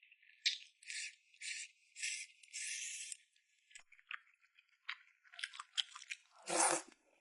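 Close-miked eating sounds: a string of short wet chewing and biting noises. A longer stretch comes about two to three seconds in, and a louder one near the end.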